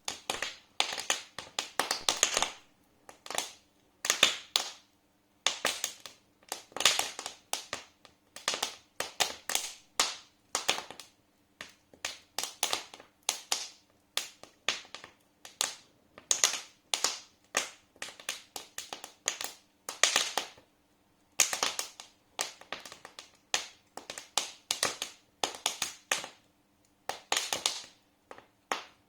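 Wood fire in a fireplace crackling: irregular sharp pops and snaps in quick clusters, with short lulls between them.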